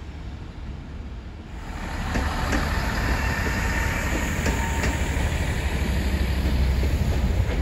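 Great Western Railway Intercity Express Train coming in along the platform: a low rumble and the rush of wheels on rail swell suddenly about a second and a half in and then hold loud, with a few sharp wheel clicks as it nears.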